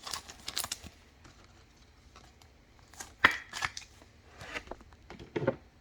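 Trading cards being handled and flipped through, card stock sliding and snapping against card stock in short scattered swishes and clicks that come in a few clusters.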